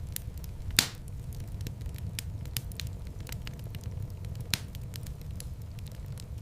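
Wood fire burning in a fireplace: a steady low rumble of flames with frequent small crackles, and a sharper pop about a second in and another a little after four seconds.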